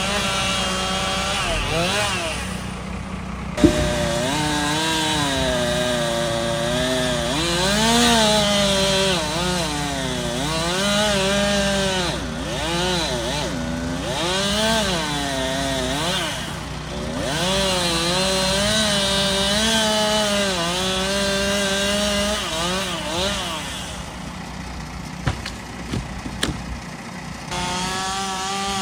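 Chainsaw cutting wood, its engine pitch rising and falling as it works under load, with a single sharp knock about three and a half seconds in. Near the end the saw drops back to a low idle for a few seconds, then revs up again.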